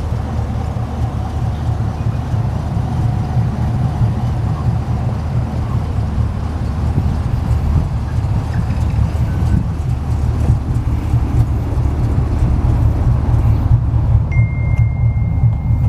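Holden Commodore's exhaust running steadily at idle with a deep low rumble, growing slightly louder toward the end.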